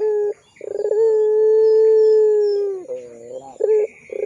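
Puter pelung dove, a long-voiced domestic Barbary dove, cooing. A short note is followed by one long, drawn-out steady coo that drops in pitch at its end, then a lower wavering note and a brief note near the end.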